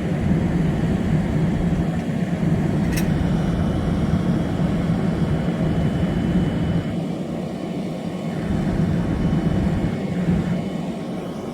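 An engine running steadily with a constant low hum, and a single sharp crack about three seconds in.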